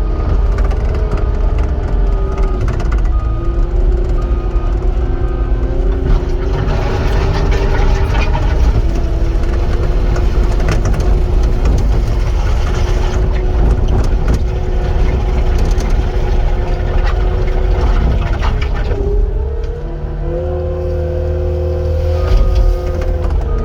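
Cat 259 skid steer's diesel engine running under working load, its pitch shifting as the machine works, dipping briefly and then revving up near the end. A reverse alarm beeps in even pulses at the start and again near the end as the machine backs up.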